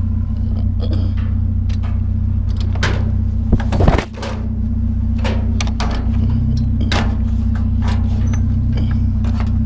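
A vehicle engine idling steadily, with scattered clicks and knocks of objects being handled and one loud bang about four seconds in.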